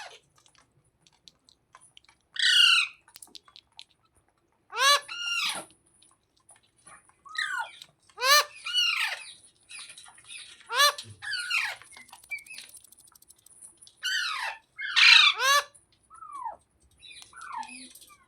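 Rose-ringed (Indian ringneck) parakeet squawking: a string of short, harsh calls that slide downward in pitch, coming every second or two, some in quick pairs.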